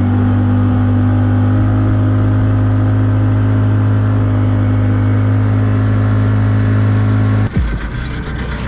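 Skiff's outboard motor running steadily underway, a constant hum. About seven and a half seconds in, the sound changes abruptly and drops in level.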